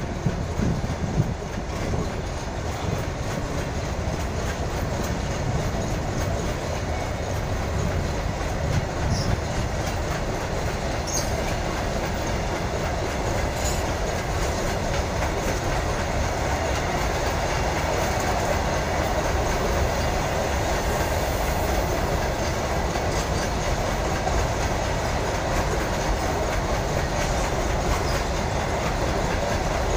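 Long freight train of open steel wagons rolling past at a steady speed, its wheels running on the rails with an even, continuous rolling noise.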